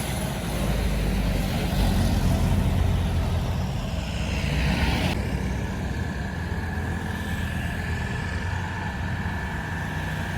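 Heavy truck engine running with a deep, steady drone under road noise, a swell of hiss in the middle and a thin steady whine from about halfway through.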